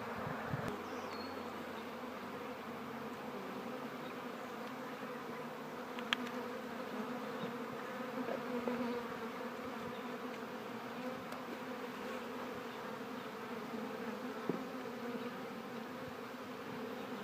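Honeybees buzzing in a steady hum around an open hive as the frames of a nuc colony are handled. There is a faint click about six seconds in.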